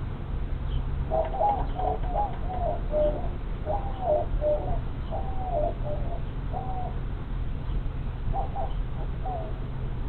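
A bird calling a series of short whistled notes, several falling in pitch, in two bouts with a pause near the end, over a steady low hum.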